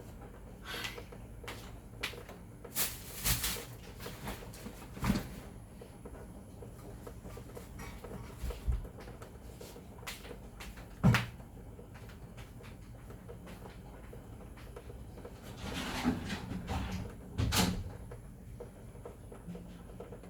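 Scattered knocks and clicks, with the loudest single knock about eleven seconds in and a denser cluster near the end, over a low steady background.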